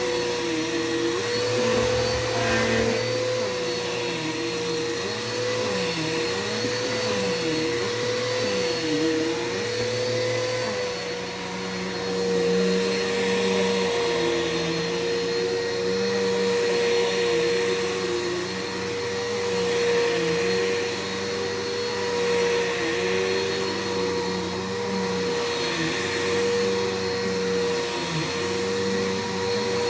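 Bissell PowerForce bagless upright vacuum cleaner running on carpet, a steady motor whine over a rush of air. Its lower tones waver up and down for the first ten seconds or so, then settle to a steadier note.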